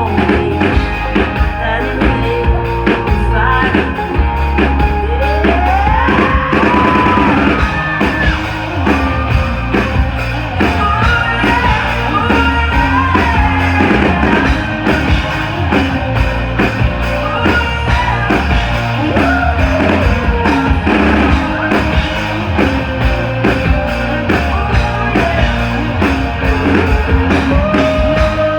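Live rock band playing a song with singing, electric guitar and drums, loud and full with a steady beat.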